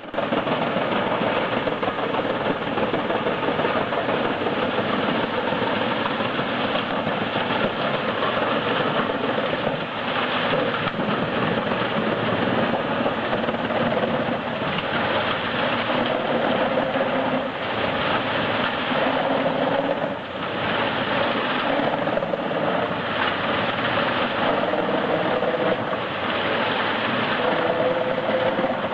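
Heizohack HM 8-500K drum wood chipper running under load as logs are fed in: a steady, dense din of engine and chipping drum. The loudness dips briefly a couple of times.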